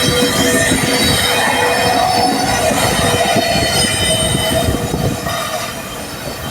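Train running on the rails, its wheels squealing in several high steady tones over a clattering rumble; it eases off a little near the end.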